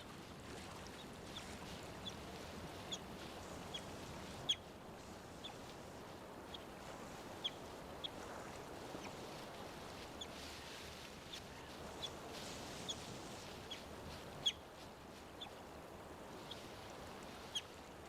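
River otters giving short, sharp, high-pitched chirps, one or two a second at irregular intervals, over the steady rush of river water.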